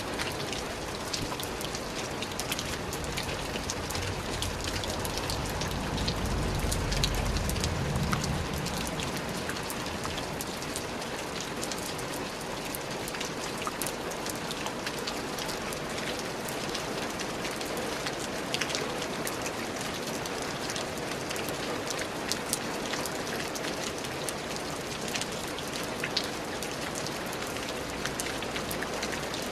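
Steady rain pattering, a dense hiss full of individual drop ticks. A low rumble swells and fades about six to eight seconds in.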